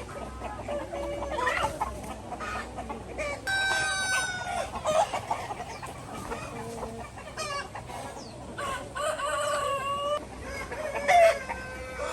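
A flock of chickens clucking and calling over one another, with longer drawn-out calls, like a rooster crowing, about three and a half seconds in and again near nine seconds.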